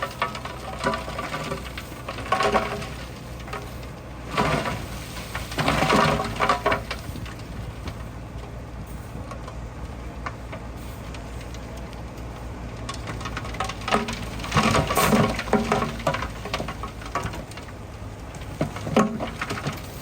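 Bulldozer diesel engine running steadily, with several bursts of crunching and clattering as stone is pushed and spread, the loudest about five to seven seconds in and again around fifteen seconds in.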